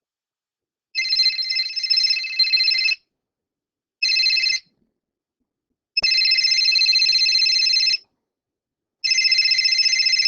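Cell phone ringtone: high-pitched electronic ringing in bursts of about two seconds, with a short burst in between, each separated by a gap of about a second.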